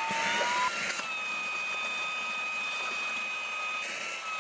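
Sycoodeal cordless handheld car vacuum running with a steady high motor whine. A button click comes at the start, and the whine climbs in pitch over about a second as the vacuum steps up to a higher power mode, then holds.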